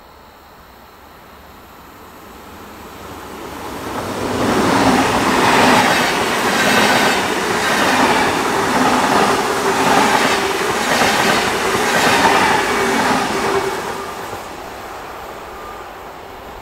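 A Rhein-Ruhr-Express Siemens Desiro HC electric multiple unit passes close by. The rush of wheels on rail builds over a few seconds and stays loud for about ten seconds, with a clatter about once a second as the wheelsets pass, then drops away near the end.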